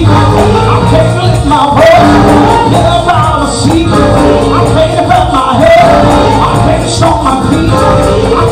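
Gospel music with singing over the band.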